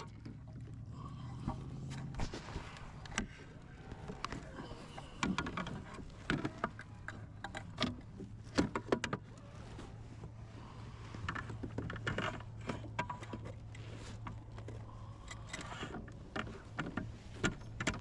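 Irregular knocks, clicks and clatter of a fish and gear being handled aboard a plastic fishing kayak, over a steady low hum.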